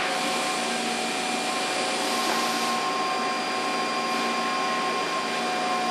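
Steady whirring motor noise with several steady whining tones, holding at one level without a break.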